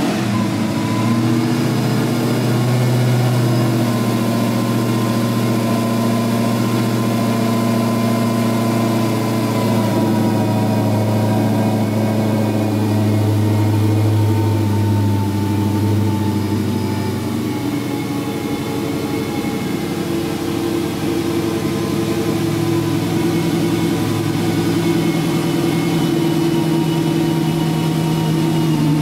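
Supercharged 6.2-litre HEMI V8 of a Dodge Challenger SRT Hellcat idling steadily just after start-up, its note shifting slightly about two-thirds of the way through.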